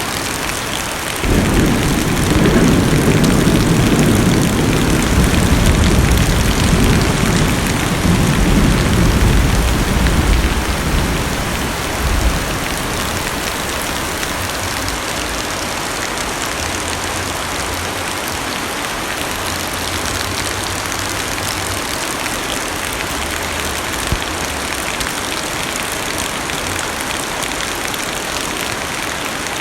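Heavy rain hissing steadily on a car's roof and windows, heard from inside the cabin. A long, low rumble of thunder starts suddenly about a second in and dies away over roughly ten seconds.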